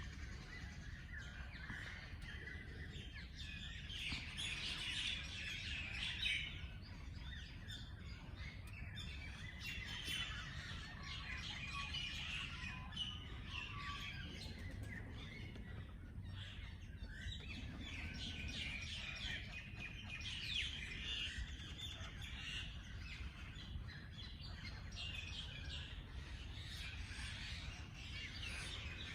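Several wild birds chirping and singing at once, overlapping short calls and trills, over a steady low background rumble.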